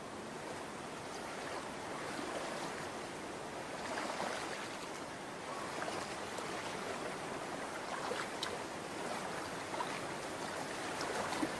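Shallow stream water rushing steadily, with a few faint brief ticks.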